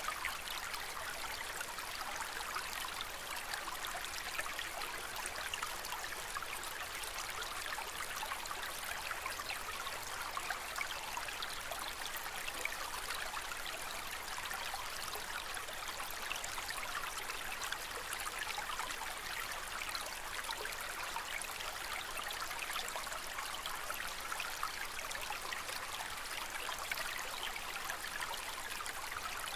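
Aquarium water trickling and splashing steadily, an even stream of small splashes with no pauses.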